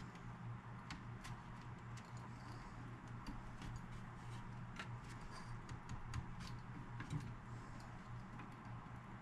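Scattered light clicks and ticks of a hand screwdriver and small parts as screws are driven back into a stereo cabinet, over a steady low hum.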